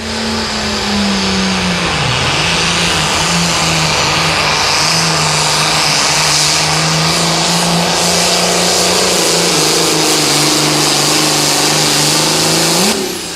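Limited pro stock pulling tractor's diesel engine running flat out through a pull. Its pitch sags about two seconds in as the load comes on and then holds steady, before rising briefly near the end as the pass ends.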